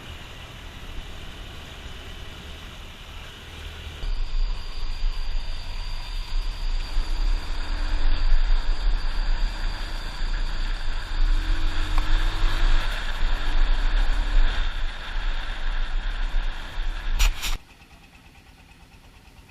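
Motorbike running along a road, with a strong low rumble of wind on the microphone. The sound jumps louder about four seconds in and drops away suddenly near the end.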